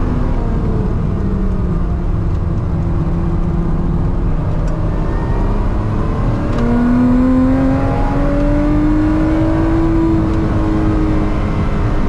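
A Lotus sports car's engine, heard from inside the cabin at speed over steady road noise. Its pitch sinks as the car slows for a bend, then climbs steadily under hard acceleration from about halfway.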